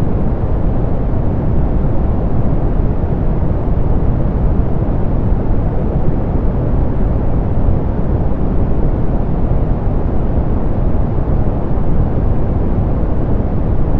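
Steady, softened pink noise, a constant hiss weighted toward the low end with little above the upper treble.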